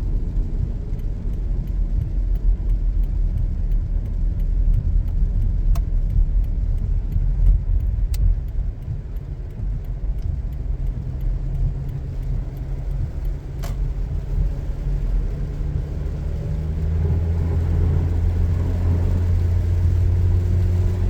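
Car cabin noise while driving: a steady low road and engine rumble. Faint, regular ticking comes in the first half, and a low drone grows louder near the end.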